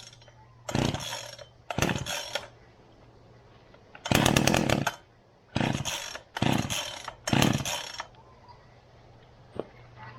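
Two-stroke chainsaw being pull-started again and again: six short bursts of the engine turning over and firing briefly, none of them catching into a steady run. It will not start, which the owner puts down to fuel he may have mixed wrong.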